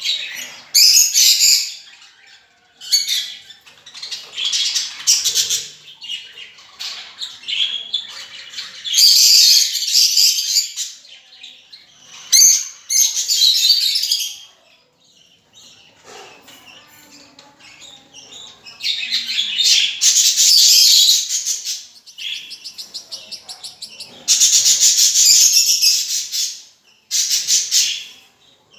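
Pet lovebirds chattering in loud bursts of rapid, high-pitched chirps, with quieter pauses between them.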